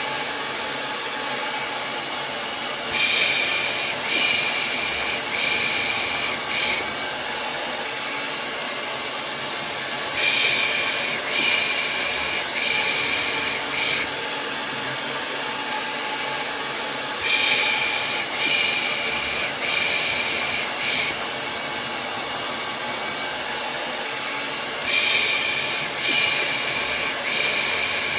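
Hair dryer running with a steady whoosh, overlaid by a person's soothing 'shh, shh' shushing in groups of about four shushes a second or so apart, coming round about every seven seconds: a baby-calming white noise loop.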